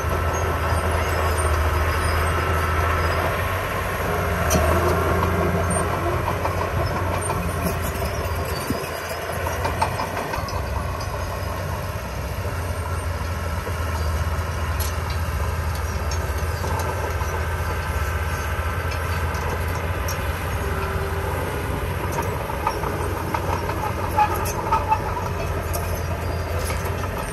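Diesel engine of a small crawler bulldozer running steadily, with its steel tracks clanking and rattling as it works soil. There are a few sharp clicks near the end.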